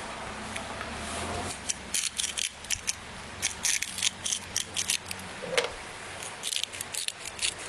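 A run of quick, sharp clicks and light rattles, like small hard objects being handled, coming in clusters from about two seconds in, over a faint low hum at the start.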